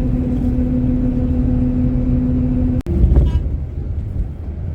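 Vehicle on the move: a steady low drone with a held humming tone. About three seconds in it cuts out abruptly and gives way to a rougher low rumble.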